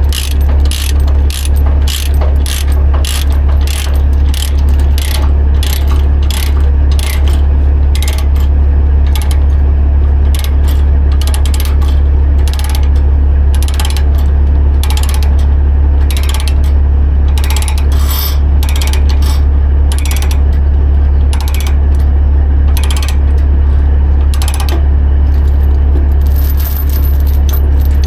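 Ratchet chain binder being cranked to tighten a tie-down chain, its pawl clicking about twice a second, over a steady low hum.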